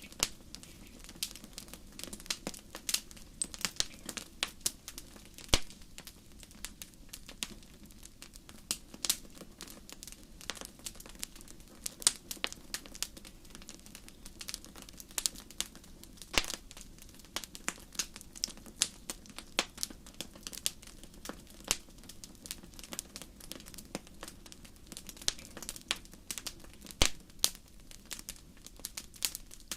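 Wood campfire crackling: a steady stream of irregular sharp pops and snaps over a low, even hiss of burning.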